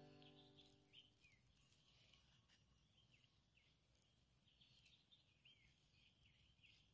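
Near silence with faint bird chirps, many short calls repeating throughout. A held music note fades out in the first second.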